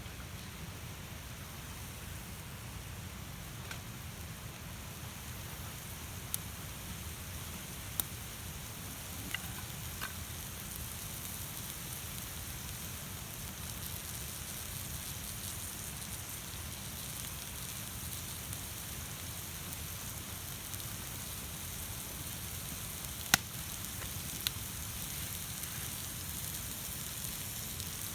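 Food sizzling steadily on a hot steel plate pan over a campfire, with a few sharp single pops.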